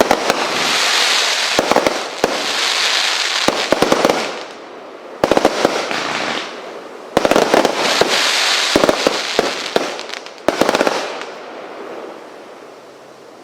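A multi-shot firework cake firing in repeated waves: sharp bangs, each wave trailing a crackling hiss, every second or two, then dying away near the end.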